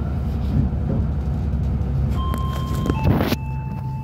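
Steady low rumble of a passenger train running, heard from inside the carriage. About two seconds in, a steady high two-pitched tone sets in and drops slightly in pitch after a brief rustling hiss near the three-second mark.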